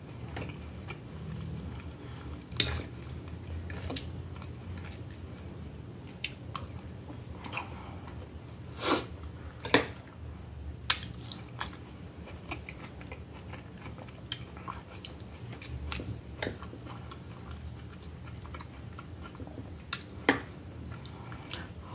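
Close-up chewing of soft boiled food (cozido: meat and stewed vegetables), with scattered short sharp clicks, the loudest about nine and ten seconds in, from a fork against the plate. A low steady hum runs underneath.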